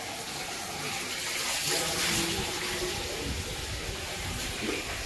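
Steady rushing noise, like running water or wind, with faint voices in the background.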